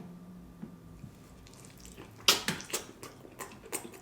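Eating sounds: a quiet pause, then about five short, sharp, wet clicks in quick succession starting about two seconds in.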